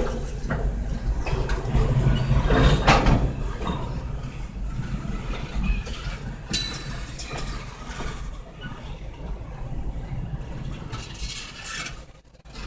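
Kansas City Southern de México freight train rolling past: a low rumble with a few sharp knocks, loudest in the first few seconds and then fading away.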